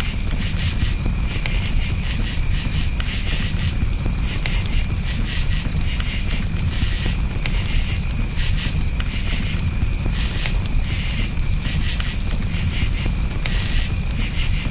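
Crickets chirping in a steady pulsing rhythm over the low rumble of a campfire, with scattered small crackles from the burning wood.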